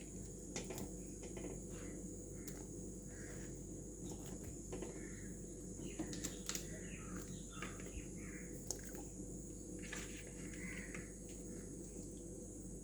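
Birds calling at intervals over a steady high buzz of insects, with a few light clicks.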